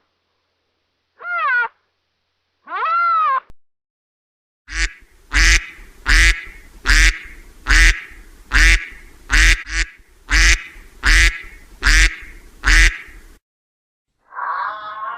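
Two short rising-and-falling cat meows in the first few seconds, then a domestic duck quacking loudly about a dozen times in a steady series, a little under one quack a second, which stops suddenly.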